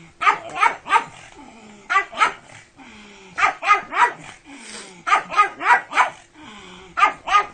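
A pug barking, about a dozen short barks in quick bursts of two to four with brief pauses between the bursts.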